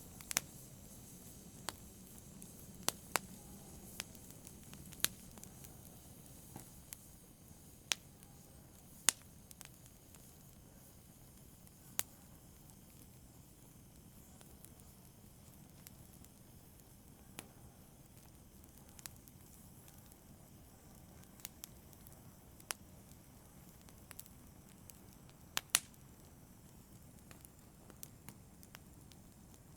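Wood fire crackling in a fireplace: sparse, irregular sharp pops, roughly one every second or two, over a faint low steady rush of the flames.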